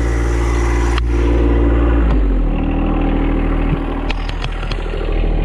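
Little John Deere compact tractor's engine running steadily, its note dropping to a lower, slower idle about two seconds in. A few sharp clicks and knocks come near the end.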